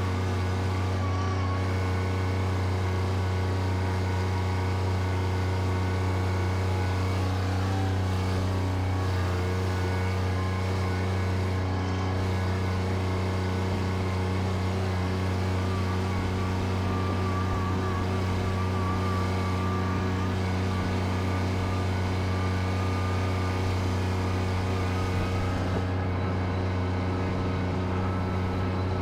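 Bobcat tractor's engine running steadily at an even pitch, with a faint wavering whine higher up.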